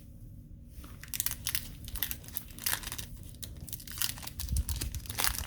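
Plastic wrapper of a hockey card pack crinkling and tearing in quick rustling bursts as it is ripped open, starting about a second in. A dull bump about four and a half seconds in.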